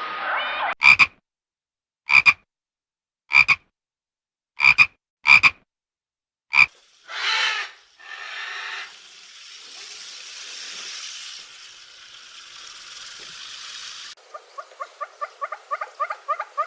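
An animal calling in six short, sharp calls, each a second or so apart, then one longer call and several seconds of hiss. A fast run of chirps starts near the end.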